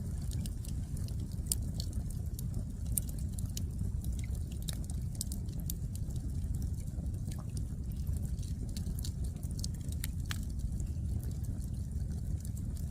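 Firewood burning in an open wood fire: irregular sharp crackles and pops over a steady low rumble.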